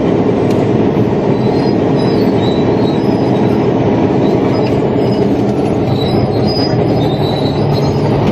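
Caterpillar D8T bulldozer running and moving in reverse: a loud, steady diesel drone with high-pitched squeals from the steel tracks and running gear.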